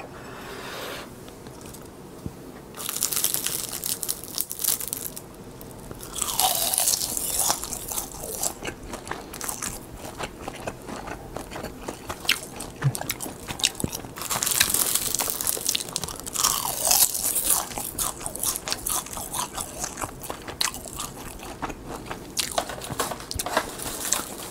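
Close-up crunching and chewing of crisp lamb-skewer-seasoned laver (gim) sheets, in repeated spells of dense crackling bites with quieter chewing between.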